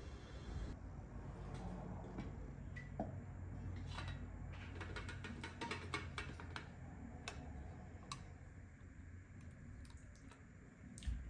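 A series of light clicks and taps, coming fastest in a quick run about five seconds in, over a low steady hum.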